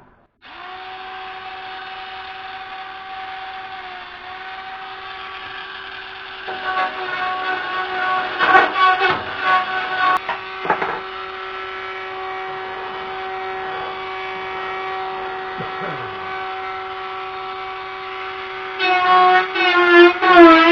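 Dremel rotary tool running at high speed with a steady whine, smoothing the cut edge of steel. From about six to eleven seconds in, and again near the end, it is pressed against the metal: the sound turns louder and rasping and the pitch dips under the load.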